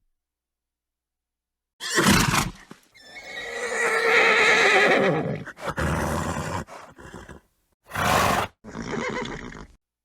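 A horse whinnies: one long, wavering neigh about three seconds in, set among shorter, noisy sounds before and after it. The first two seconds are silent.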